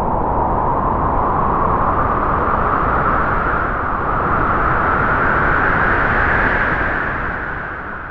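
Halloween horror sound effect: one long airy whoosh that rises slowly in pitch and swells, then dips and fades out near the end.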